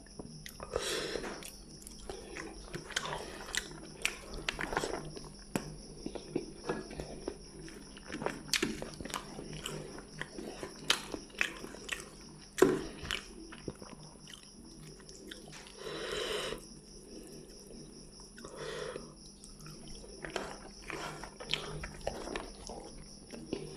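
Close-up chewing and lip smacking of a person eating rice and fish curry by hand, made of many short, wet clicks. Fingers squish and mix the rice on a plate between mouthfuls.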